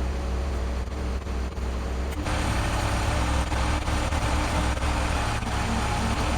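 Heavy truck engine running steadily at idle; about two seconds in, a louder rushing noise joins it and carries on.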